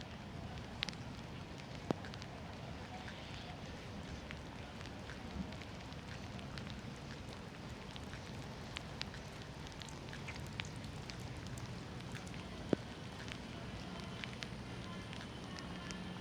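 Steady rain falling as an even hiss, with scattered sharp drip taps through it.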